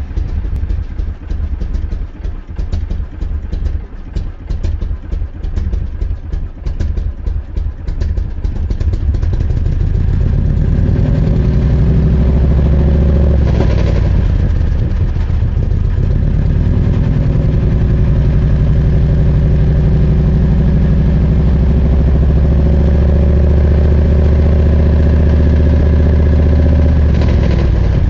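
A car engine idling with a deep, steady rumble that sets in about a third of the way through and holds. Before it comes an uneven crackling rumble with many small clicks.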